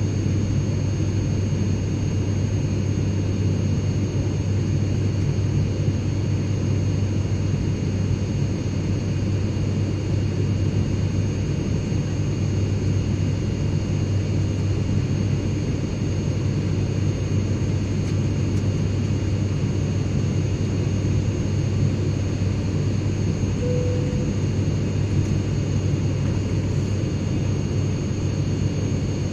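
Airliner cabin noise in flight: a steady low rumble of engine and air noise, with a few faint steady high whines above it.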